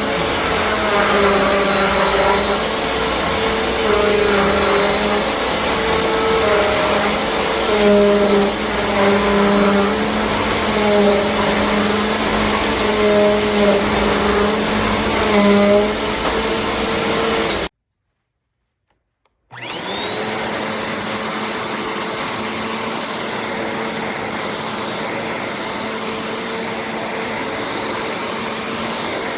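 Bissell CleanView Compact upright vacuum running, its motor tone shifting up and down for the first half. The sound cuts off abruptly for about two seconds, then the motor spins up with a rising whine and runs steadily.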